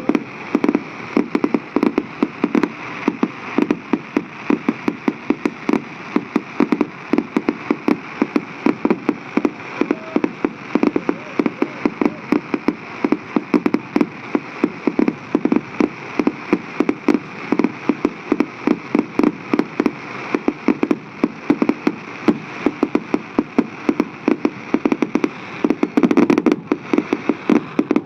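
Fireworks display: a continuous run of sharp bangs and crackles, several a second, with a denser, louder cluster near the end.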